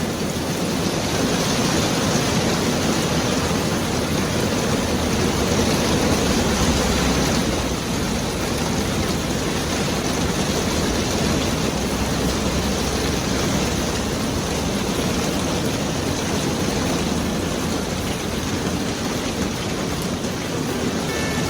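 Steady heavy rain falling, an even, unbroken hiss of downpour.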